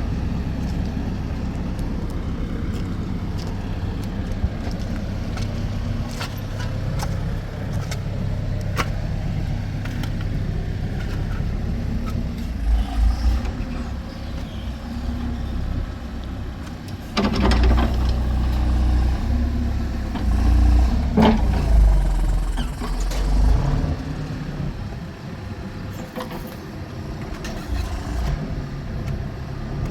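Motor vehicle on the move: a steady engine and road rumble with scattered clicks and knocks, heavier low surges a little before halfway, and again for several seconds past the middle.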